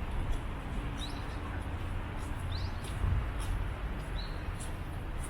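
Small birds giving short, high chirps, a few scattered over the seconds, above a steady low rumble.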